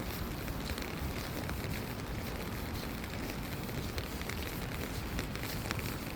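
Steady rain falling, with many small, sharp drop ticks scattered through an even hiss.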